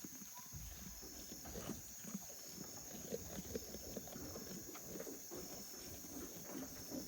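Goats moving and feeding: faint rustling and many small irregular knocks, over a steady faint high tone.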